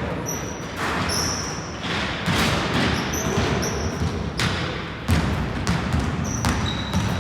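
Basketball bouncing on an indoor court with irregular thuds and short high sneaker squeaks, echoing in a large sports hall.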